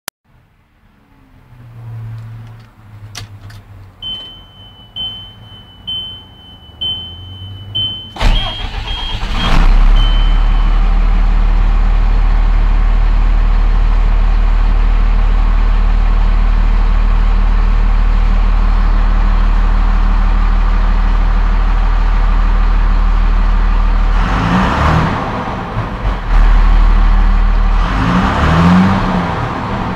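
Ford F800's 5.9L Cummins inline-six diesel. A warning beep sounds about once a second, then the engine cranks and starts about eight seconds in and settles into a steady idle. Near the end it is revved twice.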